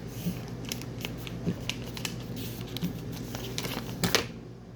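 Handling noise: irregular light clicks and rustles, with a louder click about four seconds in, over a steady low hum.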